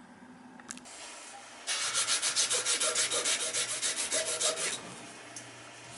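Quick rhythmic back-and-forth scraping of an abrasive on a furnace blower motor's steel shaft, about eight strokes a second for roughly three seconds, starting about two seconds in: the shaft being cleaned of a burr before the new pulley goes on.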